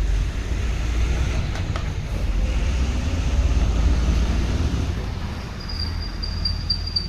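A vehicle running with a steady, loud low rumble, and a thin high whine near the end.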